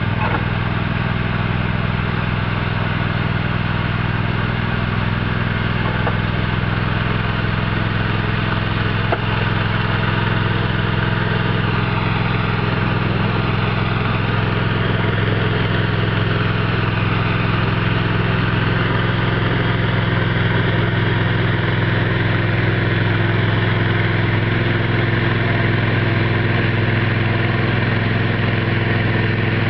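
Craftsman garden tractor engine running steadily at an even speed.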